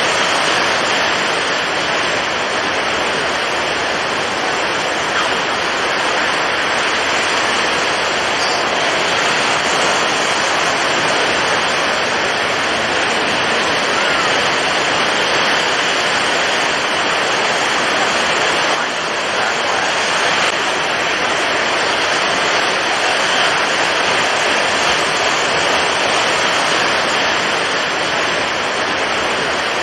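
Storm at sea: strong wind and heavy surf blending into one steady, dense rush, with no distinct wave breaks standing out.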